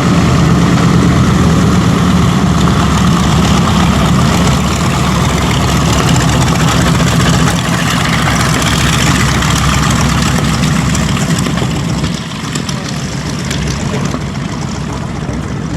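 Radial piston aircraft engines running steadily at close range, with a deep, even drone; the sound eases off a little about twelve seconds in.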